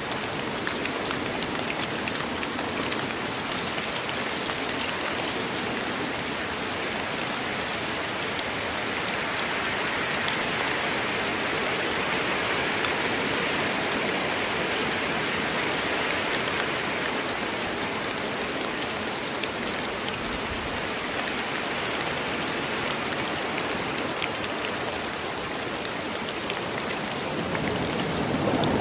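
Steady rain falling in a forest, an even wash of noise with fine drop ticks throughout.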